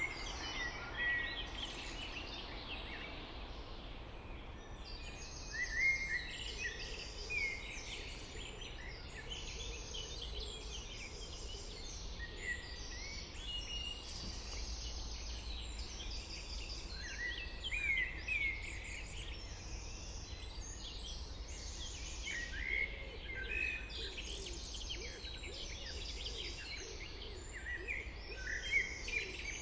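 Several songbirds singing and calling together in a natural soundscape: many overlapping chirps, trills and short whistles, with louder calls about six seconds in, at about eighteen seconds, and near the end. Beneath them runs a steady low rumble.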